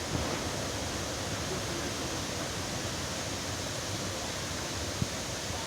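River water rushing over rocks in a steady, even rush, with one short knock about five seconds in.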